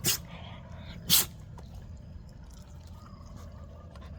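A dog sneezing twice, two short sharp bursts about a second apart.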